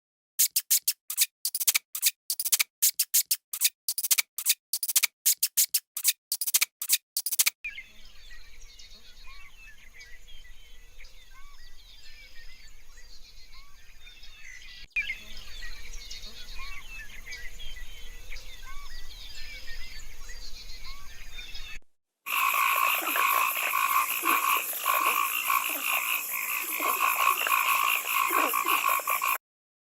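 Frog calls in three separate segments: first a rapid series of sharp clicks for about seven seconds, then a faint chorus of small chirps, then after a short break a loud, dense pulsing chorus.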